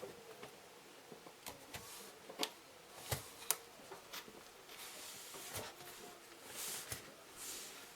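Scattered light clicks and knocks, with a few short hissing rustles near the end: the sound of hard objects being handled.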